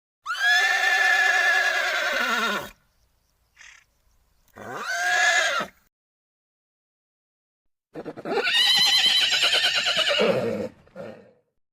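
Horse whinnying three times, with silence between the calls: a long whinny of about two and a half seconds, a short one, then another long, quavering whinny with a brief trailing snort-like tail.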